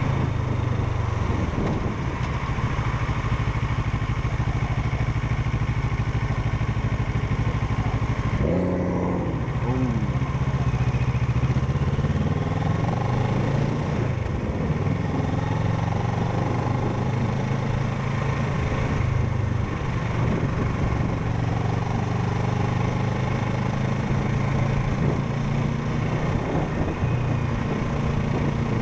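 Parallel-twin motorcycle engine running steadily under way. About eight and a half seconds in, its pitch shifts briefly, then it settles back to a steady note.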